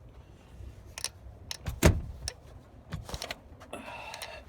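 BMX bike rattling and clicking as it rolls over pavement, with a low rumble of wind on the microphone and a sharp knock about two seconds in.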